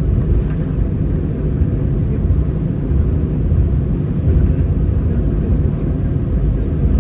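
Steady low rumble of an Airbus A319 heard from inside the cabin while it taxis after landing: its CFM56 engines are at idle and the wheels roll along the taxiway.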